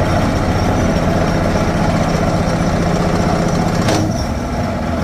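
Heavy construction machine running steadily on a rock-breaking site, its diesel engine and hydraulics under load, with a single sharp knock about four seconds in.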